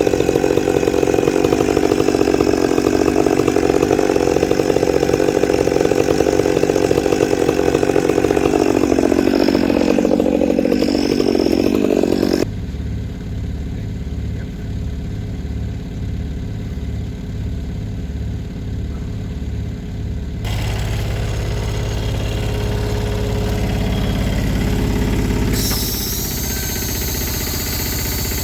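Engine noise in several spliced clips. First a chainsaw runs loudly and its pitch sinks before an abrupt cut about twelve seconds in. Then a lower, steady machine engine runs, with further hard cuts.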